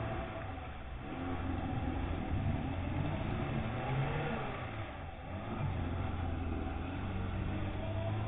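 Lada Niva's engine revving under load as the 4x4 wades through deep river water, the revs rising and falling.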